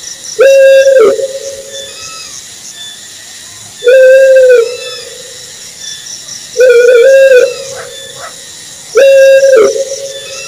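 An owl hooting: four long, level hoots at a steady pitch, one every two and a half to three seconds, each very loud and distorted.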